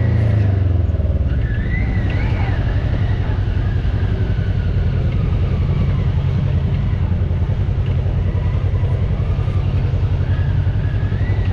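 Off-road vehicle engine running steadily, a low rumble with a fine rapid pulse.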